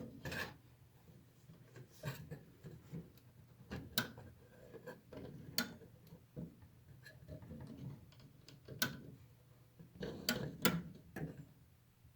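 Air conditioner and heat unit clicking: sharp, irregularly spaced clicks every second or two, some in quick pairs near the end, over a low steady hum.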